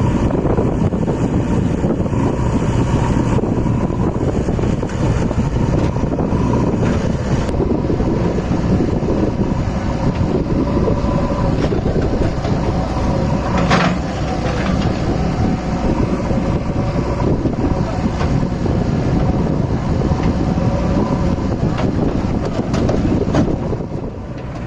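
Diesel tractor engine running steadily under load while hauling a loaded trolley, with one brief sharp sound about fourteen seconds in.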